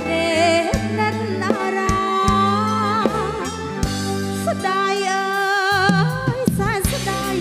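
A live Khmer band playing a slow love song, with a female singer's voice wavering in vibrato over steady bass notes and regular drum hits.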